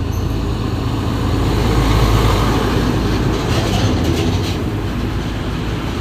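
Heavy truck driving past close by: a steady, loud, low engine sound mixed with tyre and road noise.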